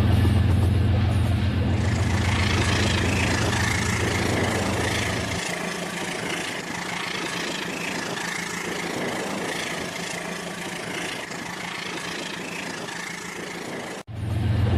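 Battery-powered Rail King toy train running on its track: a steady low motor hum with a higher rattling hiss over it. The hum drops out about five seconds in, and the sound cuts off abruptly near the end.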